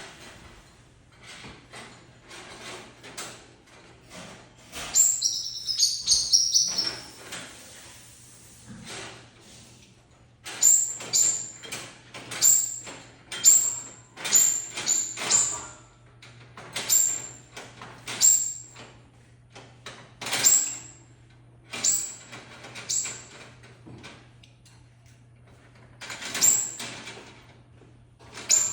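A bird calling over and over in loud, sharp, high chirps, about one a second for much of the time, over a steady low hum.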